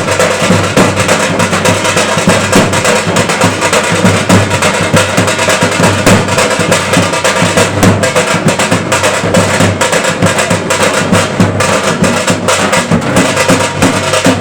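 Loud, fast, continuous drumming with percussion, strokes packed closely together without a pause.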